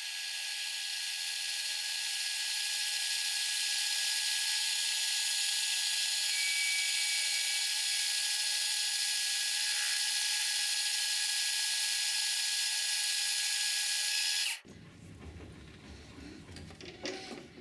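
USSR-built metal lathe taking a light turning cut on a steel part to remove rust spots: a steady high hiss with a faint thin whine and no low rumble, cutting off suddenly about fourteen and a half seconds in.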